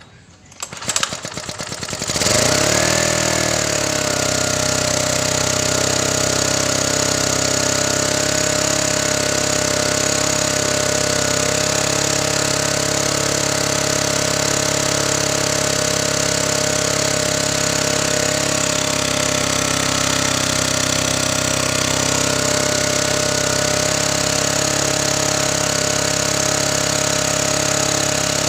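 Honda portable generator's engine catching about two seconds in after a few clatters, its speed dipping briefly and then settling into a steady run.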